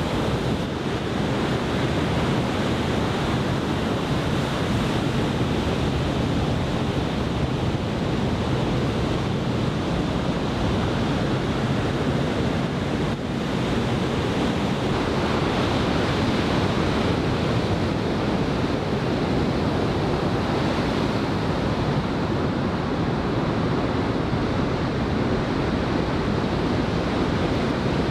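Steady rush of heavy ocean surf from a large typhoon swell, with wind buffeting the microphone.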